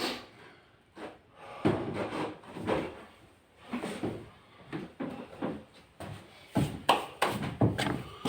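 An irregular series of knocks and clunks, about a dozen, uneven in strength and spacing, the loudest near the end.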